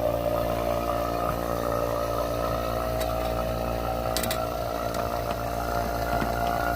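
Vacuum pump for the car's air-conditioning system running steadily with an even motor drone. A couple of faint clicks come about four seconds in.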